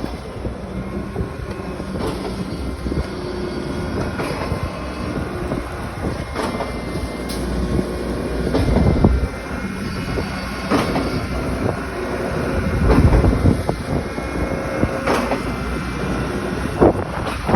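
Heavy machinery at a concrete pour running steadily, with a low rumble, scattered metal clanks and knocks, and faint squeals.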